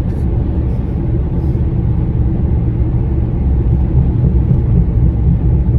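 Steady low rumble of engine and tyre noise from inside a car driving along, growing a little louder near the end.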